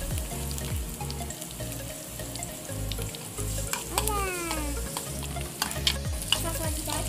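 Chopped onion and garlic sizzling in hot oil in a frying pan, stirred with a metal spoon that scrapes the pan, with a few sharp clicks near the end.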